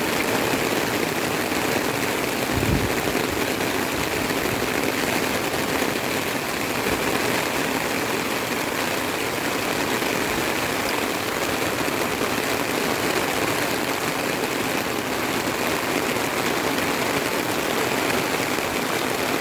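Steady rain falling, an even hiss, with one brief low thump about three seconds in.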